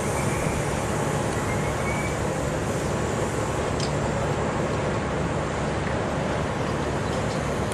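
Class 67 diesel locomotive's EMD V12 two-stroke engine running steadily, a constant low hum under broad noise, with a faint thin squeal in the first couple of seconds.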